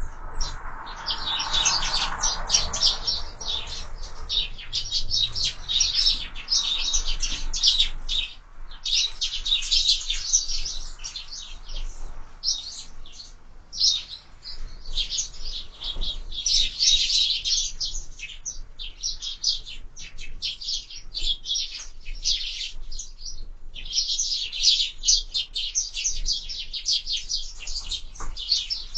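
A flock of sparrows chirping busily and almost without pause, many short chirps overlapping, at a window bird feeder.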